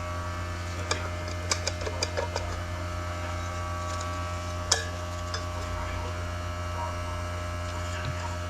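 Steady low drone of a running shop air compressor, with a few light clicks and taps as transmission parts are handled, the sharpest about five seconds in.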